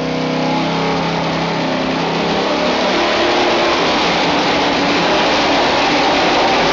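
Modified gas pulling truck's engine running hard under load, loud and steady, getting louder over the first second.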